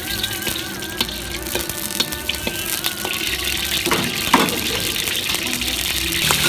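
Whole prawns sizzling in hot oil in a carbon-steel wok, a steady frying hiss. A few sharp metal knocks come about four seconds in.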